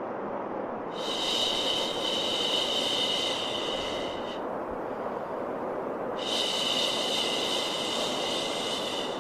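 Steady white noise for soothing a baby, with two long 'shhh' shushing sounds over it, each about three seconds long with a short pause between.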